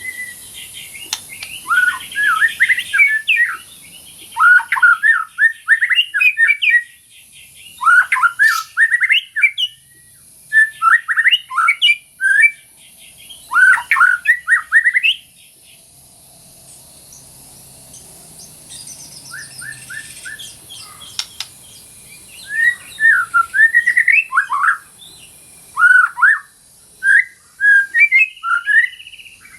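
White-rumped shama (murai batu) singing in quick runs of varied, gliding whistled phrases, with a lull of several seconds in the middle before the song starts up again.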